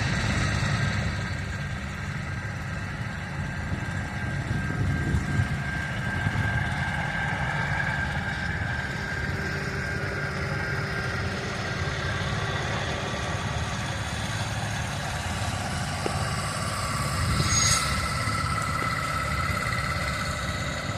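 Steady low rumble of a heavy engine running, with faint high whining tones drifting slowly in pitch and a short hiss near the end.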